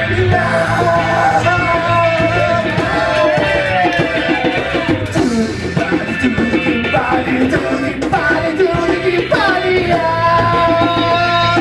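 A rock band playing live, with a lead line that slides up and down in pitch over a steady bass and drums.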